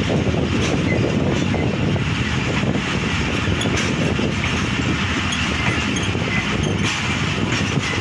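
Passenger train coach running on the track, heard from its open door: a steady rumble of wheels on rail mixed with rushing air, with a few faint clacks.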